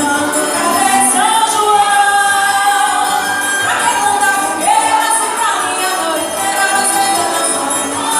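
A Brazilian folk song performed live: a group of voices singing the melody over instrumental accompaniment.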